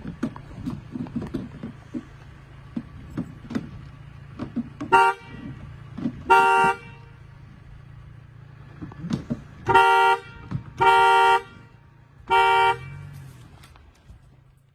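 Car horn honking five times, short blasts of about half a second to a second, with scattered knocks and clattering and a low steady hum between them.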